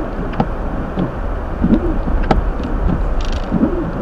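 Hyundai Elantra driving on a snowy road, heard from inside the cabin: steady tyre and road noise over a low rumble. The windshield wipers sweep about every two seconds, with a few short clicks.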